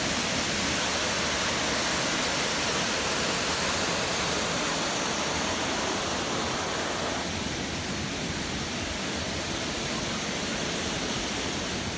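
Waterfall rushing: a steady, even roar of falling water that gets slightly softer about seven seconds in.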